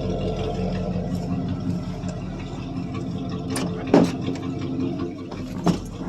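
1985 Chevy C10's 305 small-block V8 idling steadily off fast idle, freshly cold-started after two months sitting. A sharp knock sounds about four seconds in, and a smaller one near the end.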